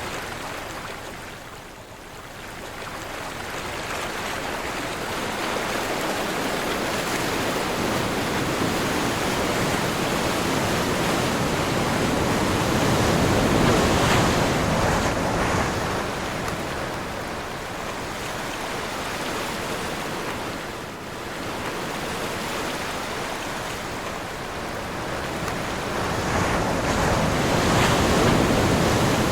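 Ocean surf with wind: waves breaking and washing in, the rush swelling and easing in long surges, loudest about halfway through and again near the end.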